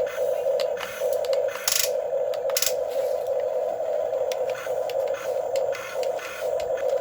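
Small electric motors of a Huina 1550 RC excavator whining steadily, dropping out briefly several times as the controls change, with short scrapes and clicks of the bucket working sand.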